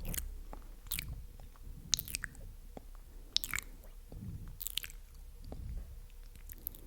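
Close-miked wet mouth sounds: sticky clicks and smacks of lips and tongue, about one sharp click a second.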